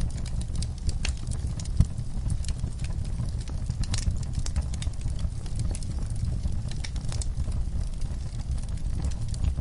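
Campfire burning with a steady low rumble of flames and irregular sharp crackles and pops from the wood, one louder pop about two seconds in.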